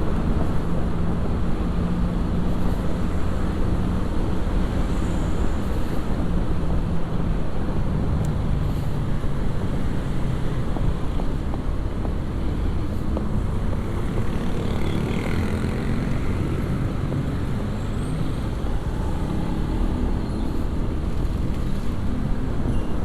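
A motorcycle being ridden in traffic: the bike's engine runs steadily, with a low hum that drifts a little in pitch, over continuous road and traffic noise.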